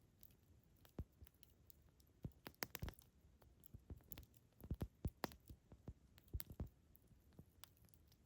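Campfire crackling: burning wood giving sparse, irregular sharp pops and snaps, with a cluster of louder ones around the middle.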